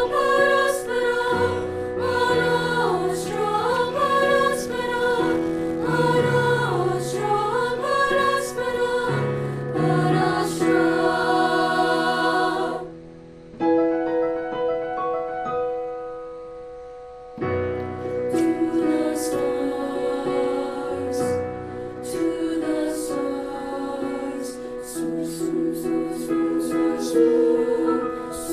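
School choir singing with accompaniment. About halfway through the music falls back to a quiet held note for a few seconds, then the choir comes back in.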